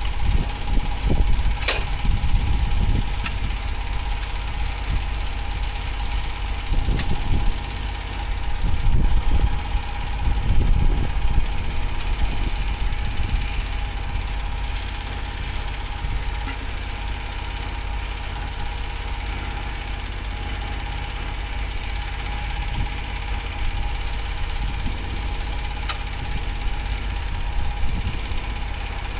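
An engine running at a steady speed, with a few sharp knocks in the first couple of seconds and heavier thuds about seven to eleven seconds in.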